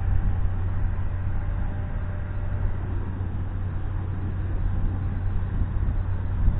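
Wind buffeting a camera microphone in a steady low rumble, with the small RC airplane's motor only faintly heard.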